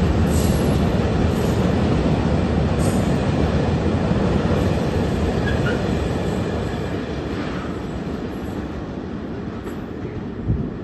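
A train rolling along the tracks, a steady heavy rumble of wheels on rail that slowly fades as it moves away.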